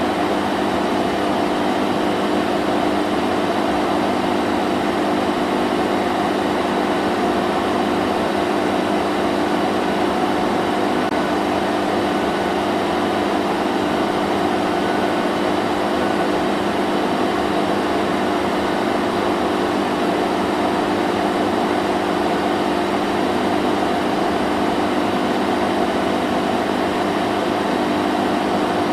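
Vacuum cleaner running continuously: a steady motor whine and rushing air, with a low hum that does not change.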